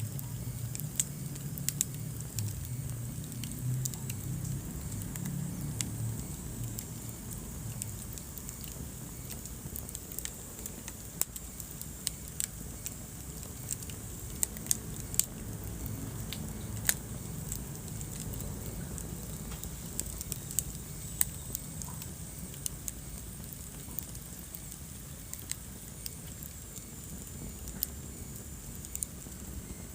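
Wood fire crackling in a fireplace: irregular sharp pops and snaps, several a second at times, over a low steady rumble of the flames.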